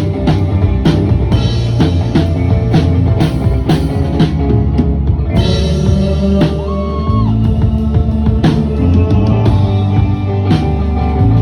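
Live rock band playing, the drum kit keeping a steady beat under sustained pitched instruments.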